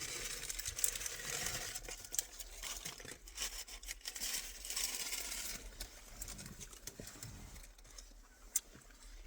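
Bichon Frise eating chicken nuggets: faint scattered small clicks and crinkling.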